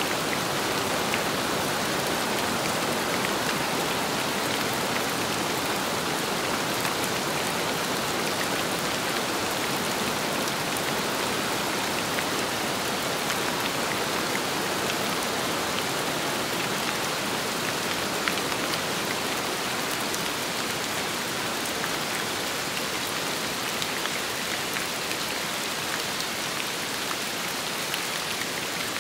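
Steady rain falling with wind: a dense, even hiss of rain, with scattered sharp drop ticks.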